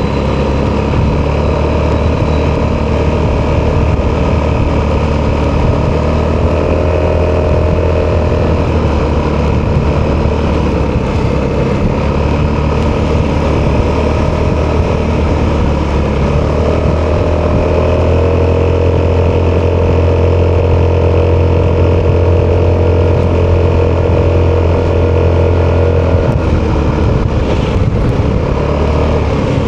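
Italjet Dragster 200 scooter's single-cylinder four-stroke engine running through an Akrapovic exhaust while riding, holding a steady note for long stretches and easing off near the end.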